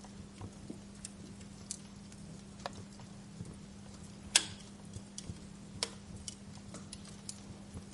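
Fireplace fire crackling: irregular scattered snaps and pops, with one sharp, loud pop about four and a half seconds in, over a faint steady low hum.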